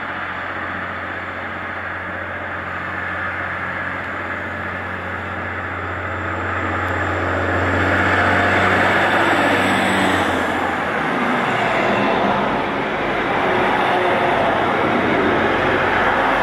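A train passing on the main line. A steady low hum and rail noise build as it approaches, a tone drops in pitch as it goes by about ten seconds in, and the noise of the train keeps going afterwards.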